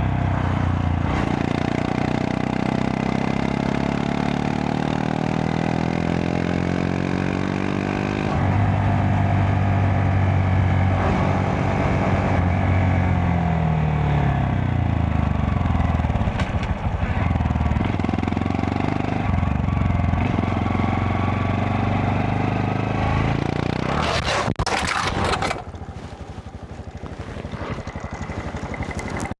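Honda Monkey 125's single-cylinder engine running on the road, its pitch falling and rising with the throttle and gear changes. Near the end there is a burst of wind noise on the microphone, and the engine then goes quieter.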